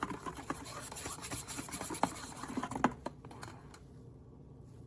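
Scratching and a run of small clicks and taps, as of objects being handled up close, dying down to quiet room tone about four seconds in.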